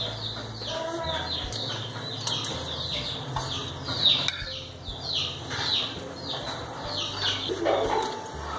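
Small birds chirping busily: short, high, downward-sweeping chirps several times a second, over a faint low hum.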